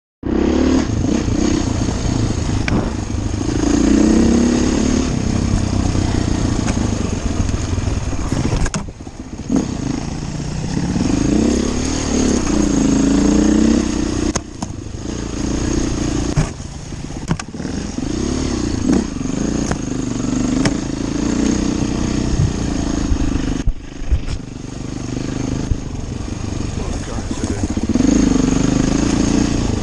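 Enduro motorcycle engine being ridden off-road, the revs rising and falling again and again as the throttle is opened and shut, with occasional sharp knocks.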